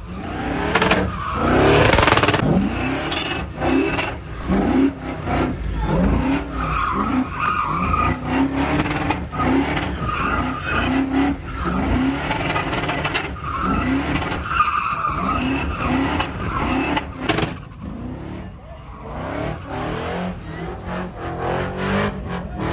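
Truck engines revving hard with tires squealing, the sound of trucks doing burnouts and donuts. Short rising revs come about once a second, with a longer climbing rev near the start, and the noise thins out near the end.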